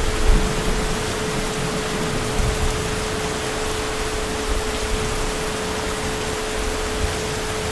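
Heavy rain falling steadily, with a brief low rumble right at the start and a steady hum underneath.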